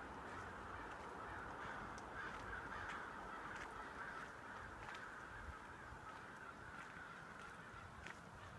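A large flock of birds calling at once: a dense, continuous chorus of overlapping calls, with single sharper calls standing out here and there.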